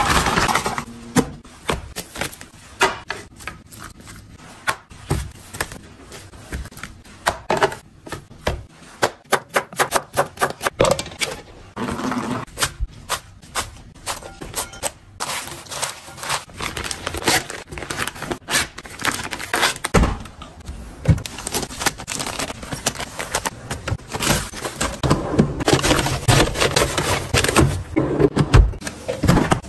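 Kitchen food-prep handling sounds: a busy run of knocks, clicks and clatter of utensils and containers, with a quick run of rapid knocks about a third of the way in.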